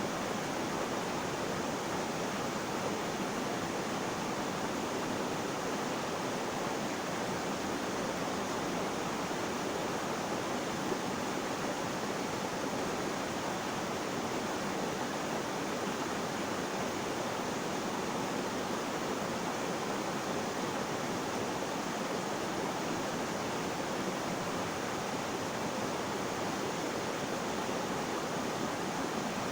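Flowing water making a steady, even rushing sound that does not change.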